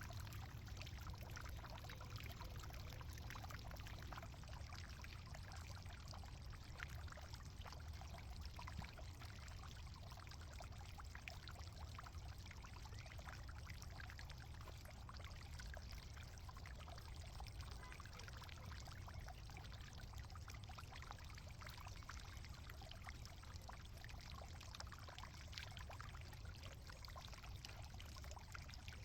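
Loose garden soil steadily crumbling and trickling with a fine crackle as a potato bin is dug out by hand.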